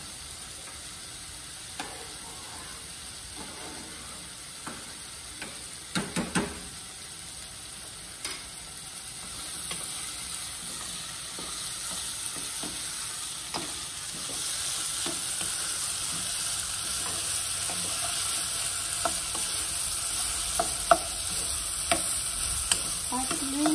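Peeled beans frying in olive oil in a pan, sizzling steadily as they are stirred and scraped with a wooden spoon, with scattered knocks of the spoon against the pan. The sizzle grows louder about ten seconds in and again a few seconds later.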